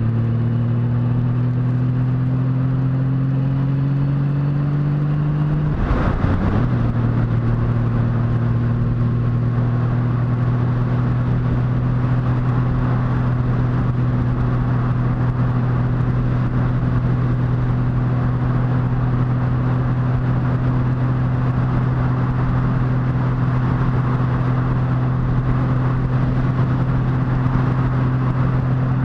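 Motorcycle engine running under way while riding, over a steady rush of wind and road noise. Its note climbs slowly for the first six seconds, breaks briefly at a gear change, then holds a steady, slightly lower pitch.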